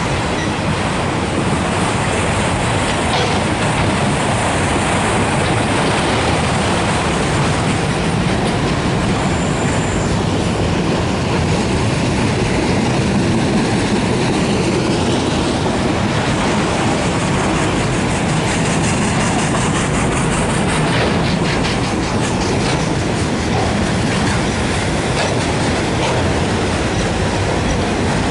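Autorack freight cars rolling steadily past close by: a continuous rumble of steel wheels on the rails, with clicking over rail joints. A brief faint high wheel squeal comes about ten seconds in.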